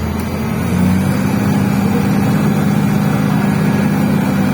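Diesel engine of a MAZ 105 articulated city bus running steadily, heard from inside the passenger cabin, with its low hum growing a little louder about a second in.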